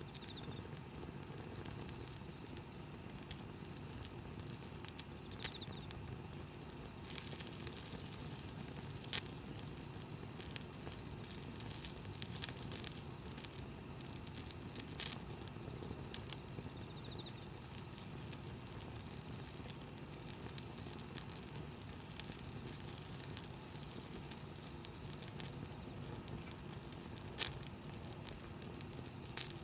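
Wood campfire burning, crackling and ticking with irregular sharp pops.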